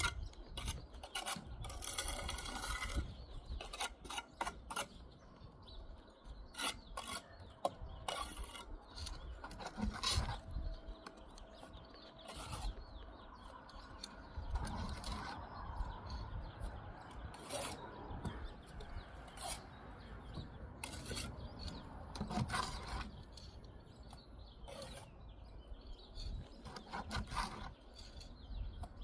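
Steel masonry trowel working mortar on brick: irregular scraping and rasping strokes with sharp clicks and taps as mortar is spread and bricks are set.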